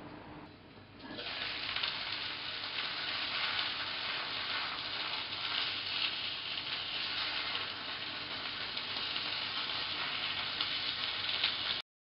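Pieces filled with seasoned ground chicken pan-frying in a stainless steel pan: a steady crackling sizzle that starts about a second in and cuts off suddenly near the end.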